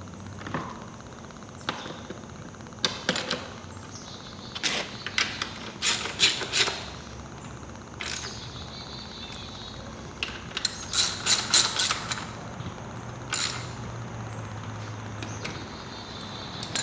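Hand tools and metal exhaust parts clicking and clinking while the rear silencer of an FMF exhaust is fitted to a motorcycle, with quick runs of sharp clicks about six seconds in and again about eleven seconds in.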